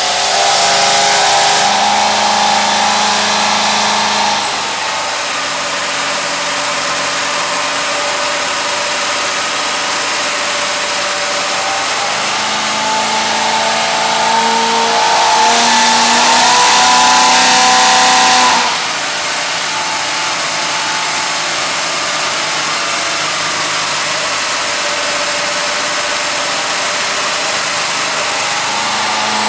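2010 Chevrolet Camaro SS's 6.2-litre V8 running on a chassis dyno. It is held at raised revs for about four seconds, then settles lower and steady. About twelve seconds in it comes up again for some six seconds, then drops back to the lower steady running.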